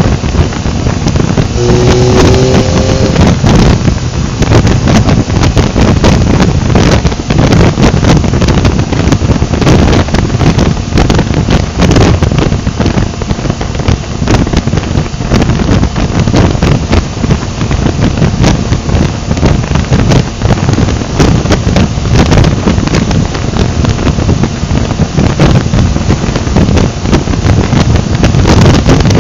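Wind rushing hard over the microphone of a moving motorcycle, with the engine droning steadily underneath. About two seconds in, a short rising pitched note sounds over the wind.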